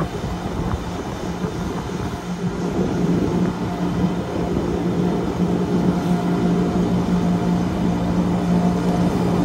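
Electric rack-railway train of the Wengernalpbahn running uphill, heard from inside the carriage at an open window: a steady low motor hum over the constant rumble of the running gear.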